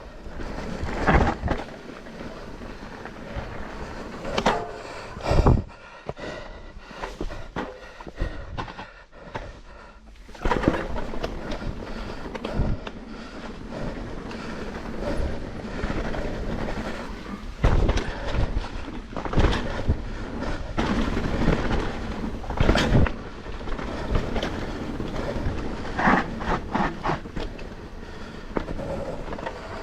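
Mountain bike riding fast down a dirt downhill trail: continuous tyre rumble and rattling of the bike, broken by several loud knocks from bumps and landings.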